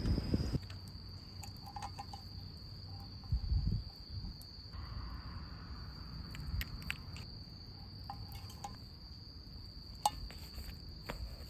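Crickets trilling outdoors in a continuous high, steady tone, with scattered light clicks and a few soft low thuds.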